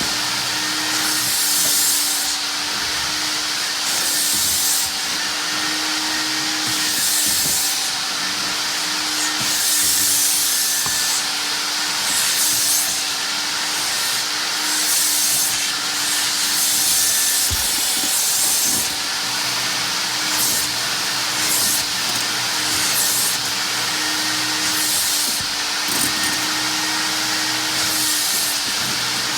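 Mytee Lite 8070 hot water carpet extractor running: a steady vacuum-motor hum under a hiss that swells every second or two as the wand is worked back and forth over the carpet, drawing out dirty water.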